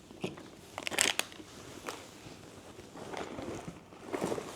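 Handling noises: a few short crackles and clicks about a second in, then soft rustling, as snack packaging is handled.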